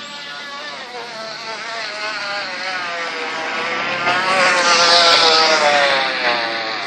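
Crushed empty plastic bottle jammed into a bicycle wheel, slapping the spokes as the bike is ridden and making a motorcycle-like buzz. It grows louder as the bike comes past, peaking about five seconds in, with the pitch sagging slightly, then fades as it rides away.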